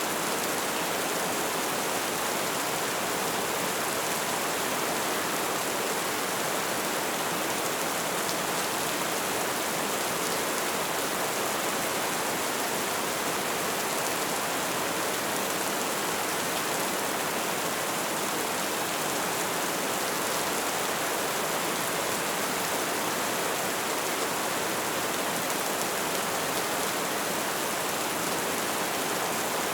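Light rain falling in a steady, even patter, with no change in intensity.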